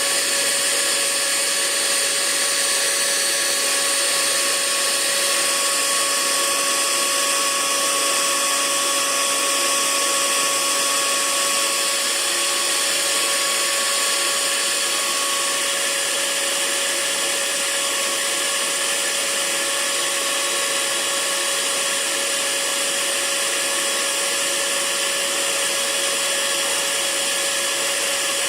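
Hair dryer running continuously: a steady rush of air with a constant motor whine over it.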